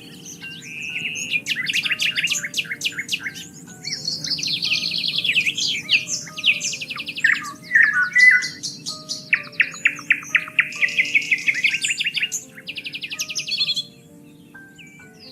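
Many songbirds singing and chirping together: rapid trills and quick repeated notes overlap. They thin out near the end. Underneath runs a low steady background with soft sustained notes.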